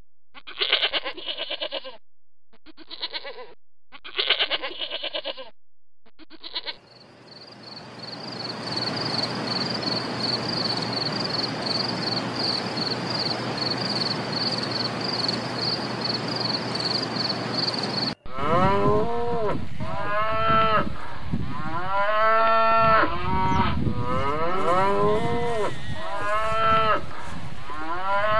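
Sheep bleating in short separate calls, then from about 7 s in a steady insect chirring with a rapid high pulse, cut off suddenly at about 18 s by a herd of cows mooing, many calls overlapping to the end.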